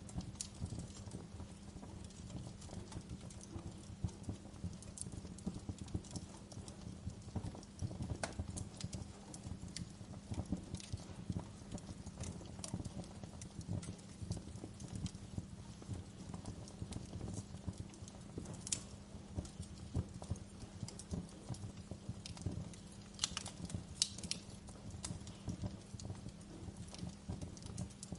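Fireplace fire crackling steadily, a low rumble of flames with scattered small pops and a few louder snaps.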